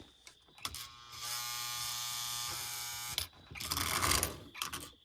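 Electric motor of a 1946 Lionel No. 1666 toy steam locomotive buzzing steadily on track power for about two and a half seconds, followed near the end by a rougher, clicking rattle of the running mechanism.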